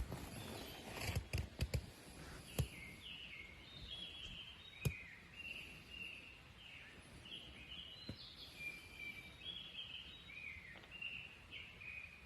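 A forest songbird singing a steady run of short, high chirping notes, many of them falling in pitch. Several sharp knocks come in the first couple of seconds, with a single louder knock about five seconds in.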